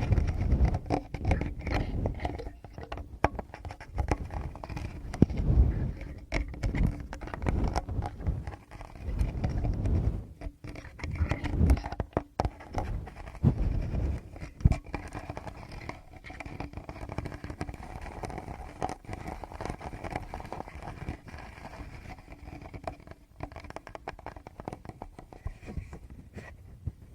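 Fingers tapping and rubbing directly on a Tascam recorder's microphones: irregular scratchy clicks over deep, close thumps, busier and louder in the first half and softer toward the end.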